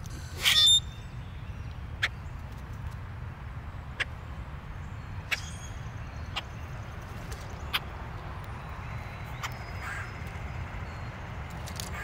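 Backyard birds calling: one loud, squeaky call about half a second in, then short, sharp call notes every second or two, over a steady low background rumble.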